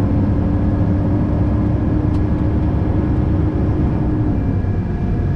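Loaded grain truck driving at a steady speed, heard from inside the cab: a steady low engine drone with road noise, and a humming tone that fades out about four and a half seconds in.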